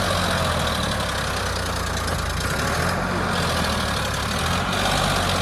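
Sonalika 745 DI tractor's diesel engine running steadily under load as it pulls a trolley stuck in mud.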